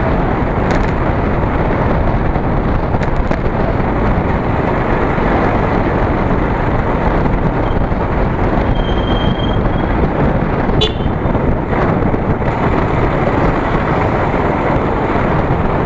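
Steady wind rush over the microphone with motorcycle road noise while riding.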